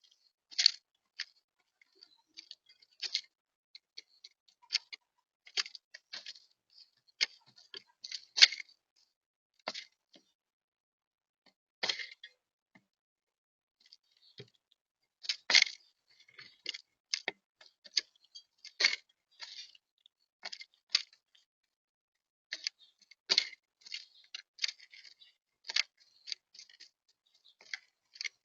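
Eurasian collared doves pecking seed at a feeder close to the microphone: irregular sharp taps and clicks in uneven clusters, with short pauses between.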